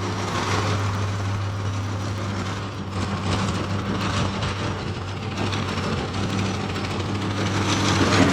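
Case 170B excavator's diesel engine running steadily, with a constant hum.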